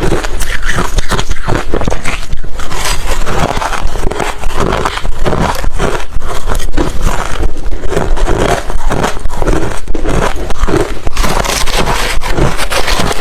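Close-miked chewing of refrozen crushed ice: a continuous stream of loud, hard crunches and crackles as the chunks break between the teeth.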